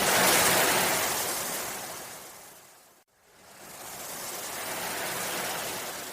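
Ocean waves washing in and drawing back: two swells of surf, the first loudest just after the start and fading out about three seconds in, the second building to a softer peak and fading again near the end.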